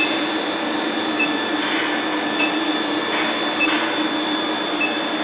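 Induction melting furnace running while it preheats the crucible: a steady hum and hiss with several thin, steady high whining tones, and a short high pip repeating about once every second and a bit.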